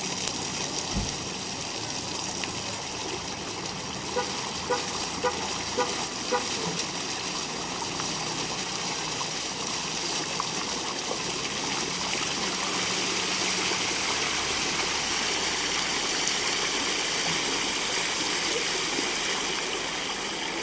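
Fountain jets spraying and water splashing into the basin, a steady rushing hiss that grows a little louder about halfway through. Early on, a run of about six short evenly spaced beeps sounds over it.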